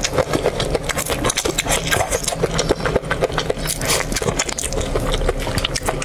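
Close-miked mouth sounds of eating raw shrimp: quick wet smacks and clicks of chewing and sucking the meat from the shell, over a steady low hum.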